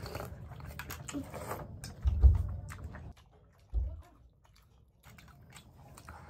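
Chewing and mouth noises of people eating steamed momo dumplings, with a dull thump about two seconds in and a smaller one near four seconds.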